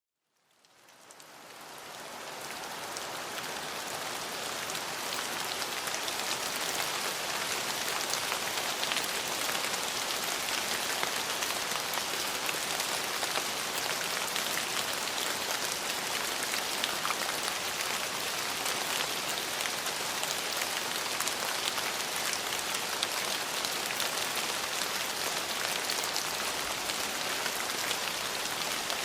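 Steady rain falling, fading in over the first few seconds into an even, dense hiss with fine patter of drops.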